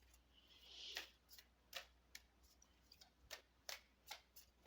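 Faint, irregular clicks and one soft sliding brush of a cigano (Lenormand-style) fortune-telling card deck being shuffled by hand.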